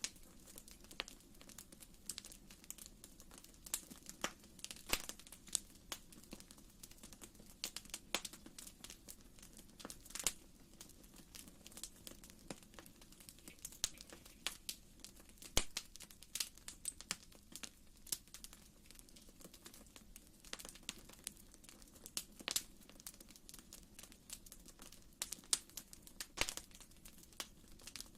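Wood fire crackling in a fireplace: irregular sharp pops and snaps, a few each second, over a faint steady low hum.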